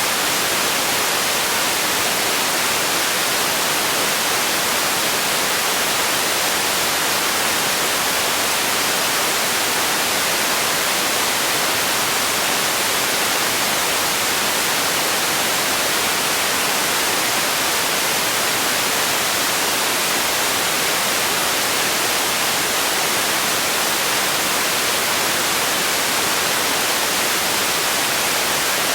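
Steady static-like white noise: an even, unchanging hiss, brightest in the high pitches.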